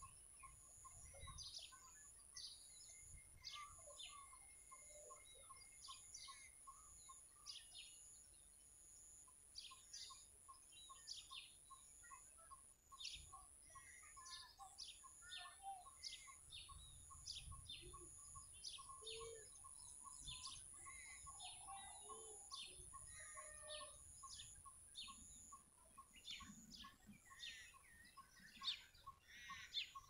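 Faint outdoor birdsong: birds chirping over and over in quick, high, downward strokes, along with a regular pulsing call about three times a second. A steady, very high-pitched whine runs underneath.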